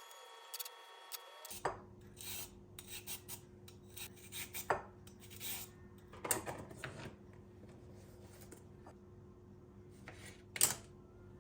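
An irregular run of short scraping and rubbing strokes, a few a second for several seconds, then a louder pair of strokes near the end.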